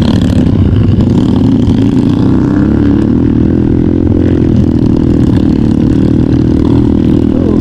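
Trail motorcycle engine running steadily under way, its pitch rising slightly a couple of seconds in.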